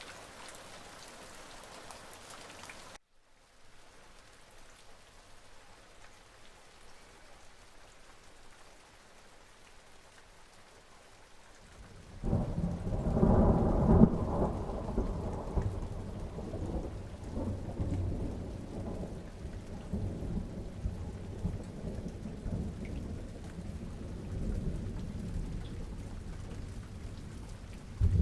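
Rain falling, which cuts off abruptly about three seconds in and gives way to quieter, softer rain. About twelve seconds in, a long roll of thunder starts suddenly, peaks a couple of seconds later and rumbles on, slowly fading, over the rain. Another thunderclap begins right at the end.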